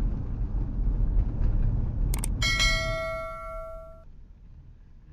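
Low vehicle rumble that fades out, and about two seconds in a couple of sharp clicks followed by a single bell-like ding that rings for about a second and a half before dying away.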